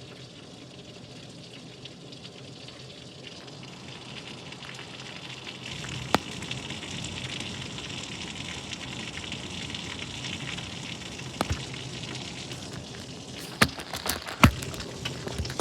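Steady hiss of rain falling, a little heavier from about six seconds in, with a few sharp, louder taps of drops or drips striking a hard surface, several of them near the end.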